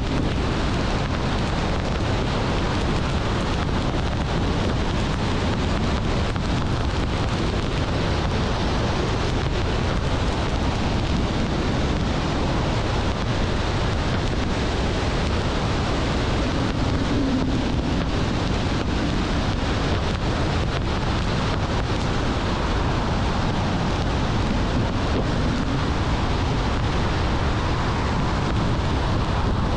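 Steady road and wind noise of a car being driven, an even rushing sound without breaks.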